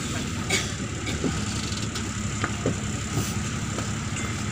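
Neman city bus's diesel engine running with a steady low hum, heard from inside the bus, with scattered light rattles and clicks.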